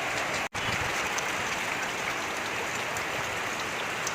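Heavy rain falling, a steady dense hiss that cuts out for an instant about half a second in.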